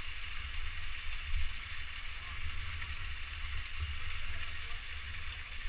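Steady rush of falling water from a waterfall, with an uneven low rumble of buffeting on the microphone.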